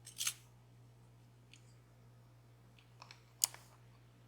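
Small sharp clicks and taps of the DOM Plura's lock pins and parts being handled: one near the start, two light ticks about three seconds in and a sharper click just after, over a faint steady low hum.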